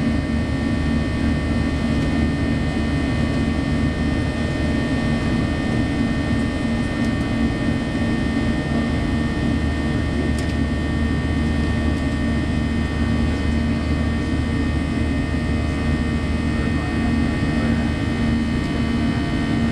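Steady jet-airliner cabin noise inside a Boeing 737-800: an even rush of engine and airflow noise with a constant low hum running through it.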